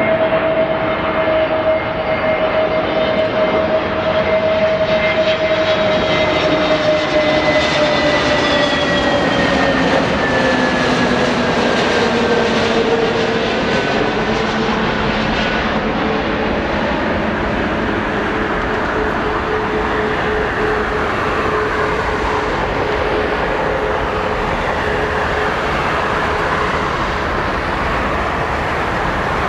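Airbus A320neo airliner's CFM LEAP-1A turbofan engines passing by as it lands: a loud, steady jet whine and rumble whose tones slide down in pitch over several seconds about a third of the way through as the aircraft goes past, leaving a steady rumble.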